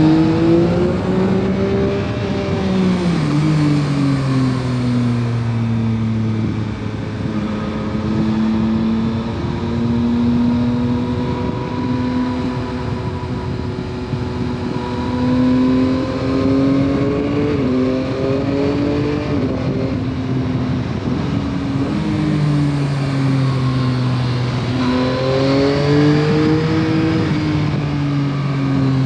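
2021 Yamaha MT-09 SP's 890 cc inline-three on its stock exhaust, under way. The engine note climbs, then drops away over a few seconds, holds fairly steady for much of the stretch, and climbs and falls again near the end, over a steady rush of wind and road noise.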